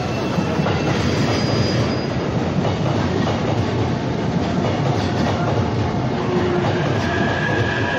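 Electric commuter train pulling in on the adjacent track, wheels clattering over the rail joints with a faint squeal, a steady rumbling noise throughout.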